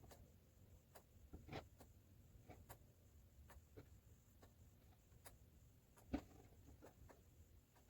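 Near silence, broken by scattered faint clicks and one short knock about six seconds in.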